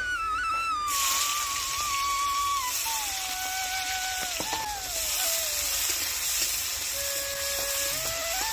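Sliced onions and potatoes sizzling in hot oil in an iron karahi, the sizzle starting abruptly about a second in. Background music with a slow, gliding melody plays over it.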